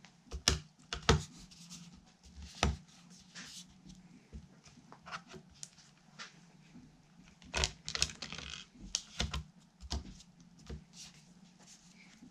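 Irregular clicks, taps and light scrapes of small parts and hand tools being handled on a workbench while a guitar is assembled, with the sharpest knocks near the start and again around two thirds of the way through, over a steady low hum.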